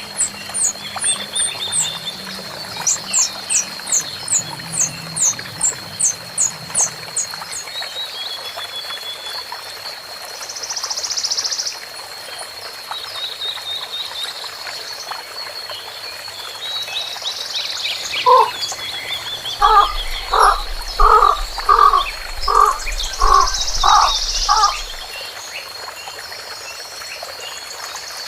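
Wild animal calls: a run of about eight pitched calls, roughly three a second, in the second half is the loudest event. Under it runs a steady high-pitched drone, and a series of quick high chirps fills the first few seconds.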